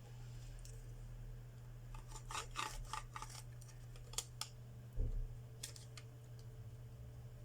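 Small tools clicking and scraping against a phone frame during a screen repair, with a soft knock about five seconds in, over a steady low hum.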